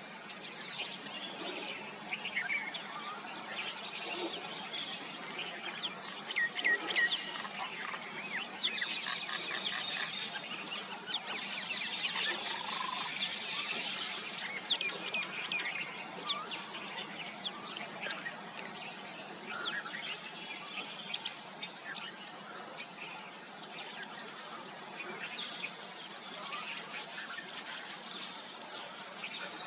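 Mynas chirping and calling in quick, varied notes, busiest in the first half, over a steady, evenly pulsing high insect chirp like a cricket's.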